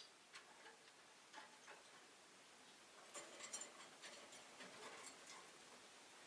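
Rosy-faced lovebirds in their cage making faint, scattered small clicks and taps, sparse at first and more frequent from about three seconds in.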